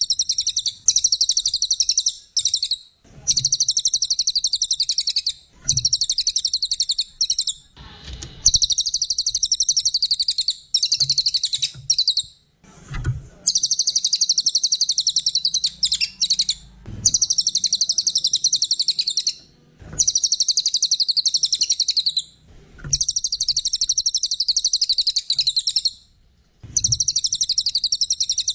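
Cililin songbird singing fast, high trills in phrases of one to three seconds, repeated over and over with short breaks between.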